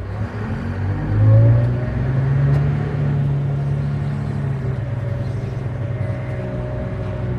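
Haul truck's diesel engine revving up, with its pitch rising and loudest about a second in, then running steadily under load.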